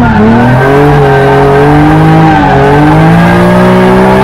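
Aston Martin DB5 stunt car's engine revving hard on a hot lap. Its pitch climbs, drops sharply at an upshift about two and a half seconds in, then climbs again.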